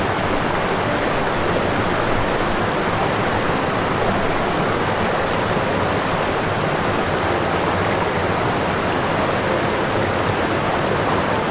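Steady, even rushing noise with no tones or rhythm, spread from low to high pitch.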